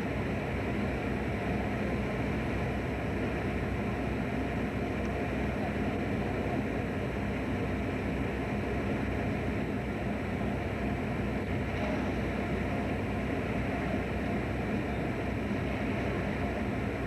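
A fishing boat's engine running steadily, a low, even rumble with no change in speed.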